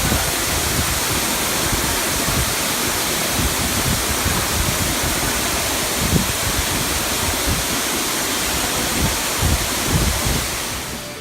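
Waterfall in a cave making a steady, loud rushing, with a few low thumps in the second half, fading out near the end.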